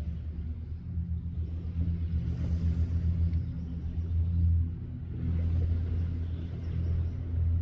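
Wind rumbling on the microphone during a bicycle ride, with two swells of rushing hiss about two and a half and six seconds in.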